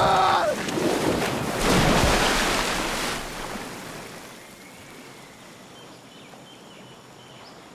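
Loud rushing noise with a surge about two seconds in, fading after about three seconds to a faint steady hiss.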